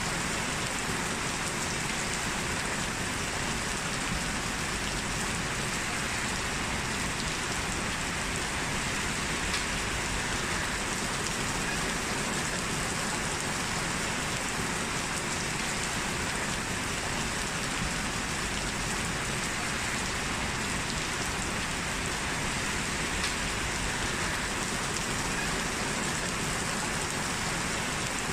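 Steady rain falling, an even hiss with faint individual drop ticks.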